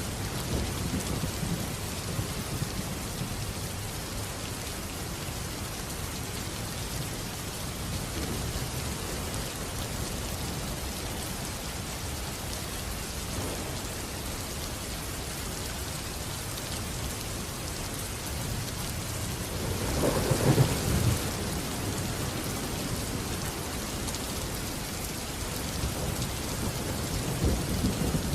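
Steady rain falling, with thunder rumbling low in the background. The loudest roll of thunder comes about two-thirds of the way through.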